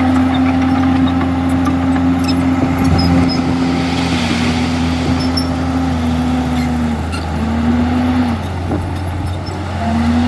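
Komatsu D51EX bulldozer's diesel engine running hard at a steady speed, its pitch dipping briefly a few times in the second half, with faint clanks over it.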